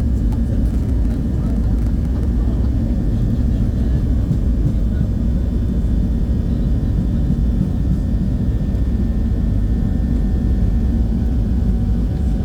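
Passenger airliner's engines and airflow heard from inside the cabin during takeoff, a steady low rumble.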